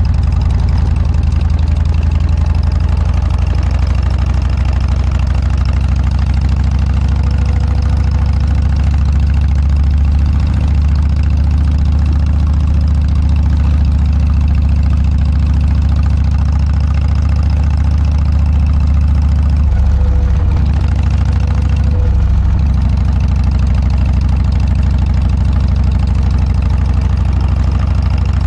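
Harley-Davidson Dyna's air-cooled V-twin running steadily through an aftermarket Motorstage muffler, a deep, even exhaust note with a brief change in the note about twenty seconds in.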